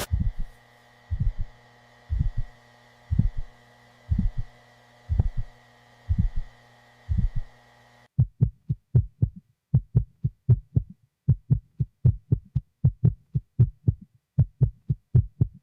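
Heartbeat: low double thumps about once a second over a steady electronic hum. About eight seconds in, the hum drops out and the beats quicken to about three a second.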